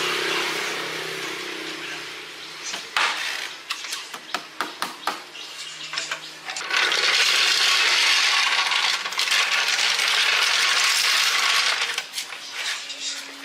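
Metal parts clinking and knocking in quick, uneven clicks, then a loud steady hiss that lasts about five seconds and stops sharply, followed by more clinks.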